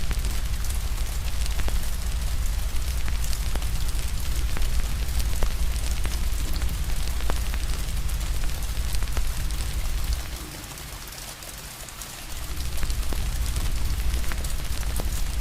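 Steady rain with a wood fire crackling over it: a constant hiss dotted with sharp pops, and a deep low rumble underneath. The rumble fades out about ten seconds in and comes back about two seconds later.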